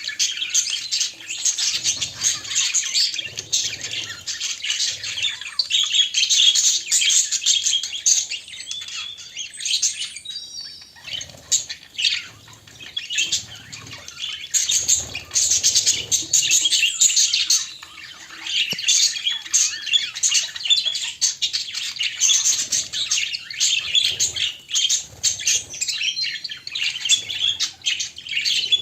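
Budgerigars chattering without pause: a dense, continuous warble of high chirps and squeaks, with a few soft low bumps now and then.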